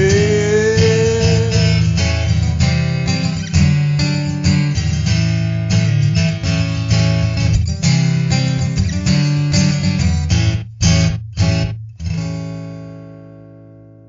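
Instrumental ending of a band's song: strummed guitars over bass, with a bending guitar note at the start. About ten seconds in, three short hits with stops between them, then a final chord rings and fades away.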